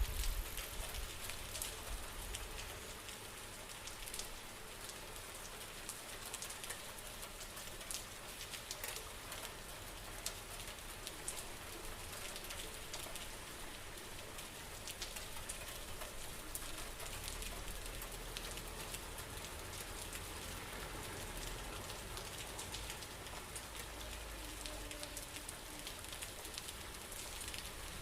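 Steady rain falling, with many separate drop hits standing out from an even wash of rainfall.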